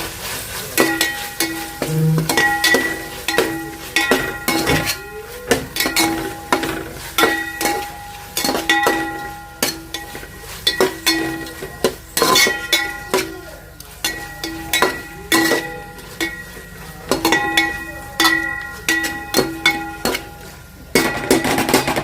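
A metal spoon stirring food in a metal cooking pot, knocking and scraping against its sides about once or twice a second so the pot rings, over a light frying sizzle.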